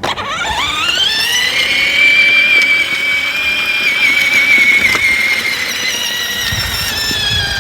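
Whine of a 6V kids' ride-on motorcycle's electric drive motor and gearbox, rising in pitch as it pulls away, then holding a steady high whine while it runs, dropping a little near the end.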